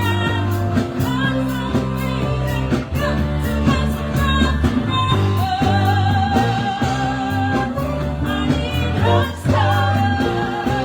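Live band playing a song: a singer holds long, wavering notes over a steady bass line and drum beat.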